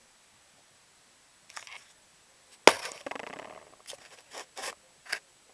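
Plastic Lego pieces being handled and snapped together: a few light clicks, one sharp clack with a short rattle about two and a half seconds in, then several more clicks.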